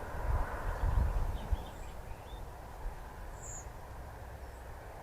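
Outdoor garden-woodland ambience picked up by the trail camera's microphone: a low rumble over steady hiss, with a few faint, short, high bird chirps about a second and a half in and one brief high call near the middle.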